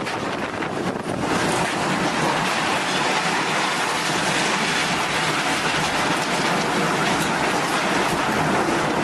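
Steady, loud rushing noise of a storm, heavy rain and wind, changing abruptly about a second in and then holding steady.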